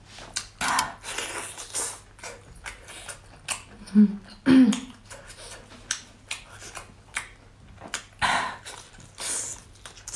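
Close-miked eating sounds of a person chewing oil-braised black tiger prawns: wet smacks and short clicks of mouth and shell, with two short hums about four seconds in.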